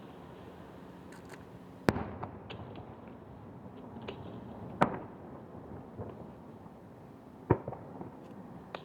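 Fireworks shells bursting over the sea: three loud sharp bangs about three seconds apart, with smaller pops between them.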